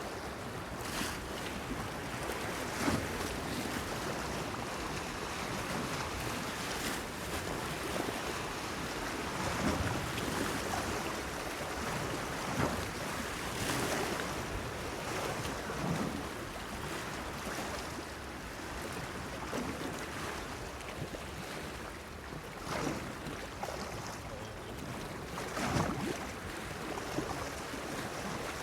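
Sea waves washing and splashing against a pier, in irregular surges every couple of seconds over a steady wash, with some wind on the microphone.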